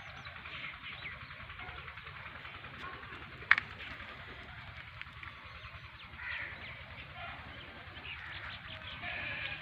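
Birds chirping and calling in short, scattered bursts, busiest near the end, with one sharp click about three and a half seconds in.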